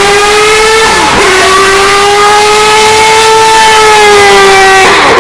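Mazda 767B's four-rotor rotary engine running hard at high revs. The pitch climbs slowly, and it breaks sharply about a second in and again near the end, as at gear changes.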